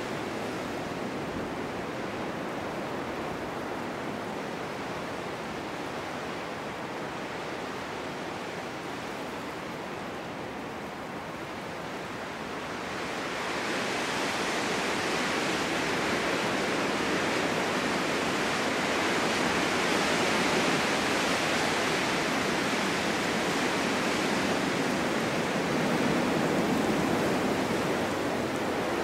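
Wind blowing in a snowstorm, a steady rushing that strengthens into a louder, hissier gust about halfway through and stays strong.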